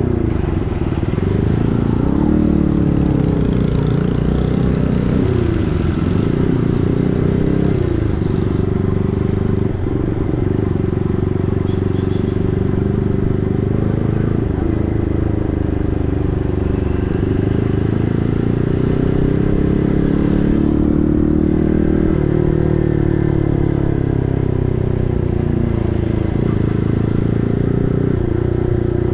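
Yamaha MT-15's single-cylinder engine through an SC Project full-system aftermarket exhaust while riding. The exhaust note rises and falls over and over as the rider accelerates and eases off.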